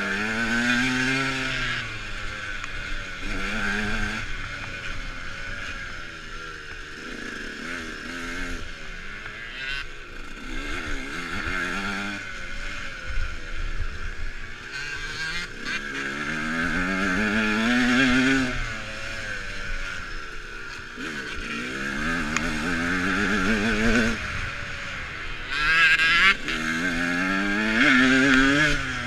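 Dirt bike engine revving up and down repeatedly as it is ridden, the pitch rising and falling with each burst of throttle.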